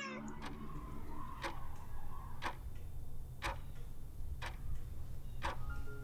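Clock ticking, one sharp tick about every second, over a low steady hum.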